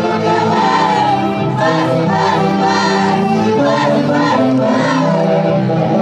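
Music from an Andean festival orchestra with saxophones, playing a tune at a steady level.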